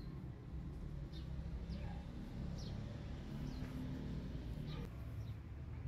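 Small birds chirping: short, high calls that fall in pitch, one every second or so, over a steady low background rumble.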